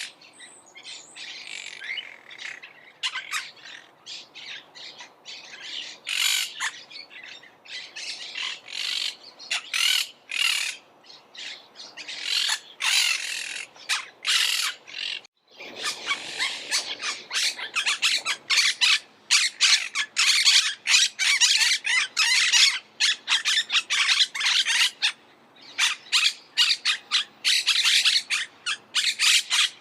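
Monk parakeets squawking in rapid, harsh, overlapping calls. Brief break about halfway through, after which the squawking is louder and denser.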